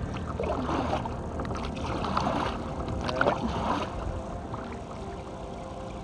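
Kayak paddle dipping into the water: about three splashing strokes over a steady low rumble of wind and moving water.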